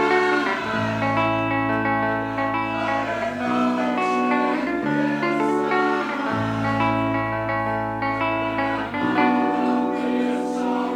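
Live band playing an instrumental passage: guitar chords over a bass line that moves to a new note every few seconds.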